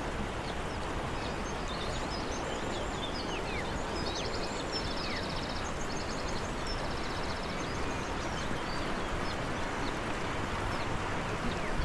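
Steady rushing of a rain-swollen stream, with small birds chirping and a rapid trill of repeated notes a few seconds in.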